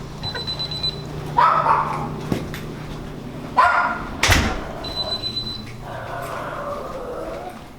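A dog barking in short bursts over a steady low hum.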